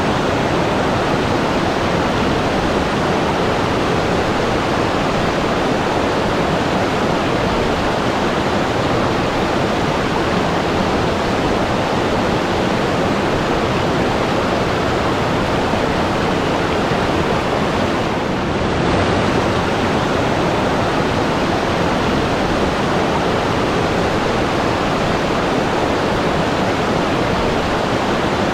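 Steady, unbroken rush of flowing water, like a waterfall or fast stream.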